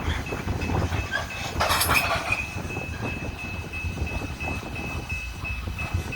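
Coal train cars rolling on the rails, a steady low rumble with clattering knocks, and a louder burst of high noise about two seconds in. A faint high tone repeats rapidly throughout.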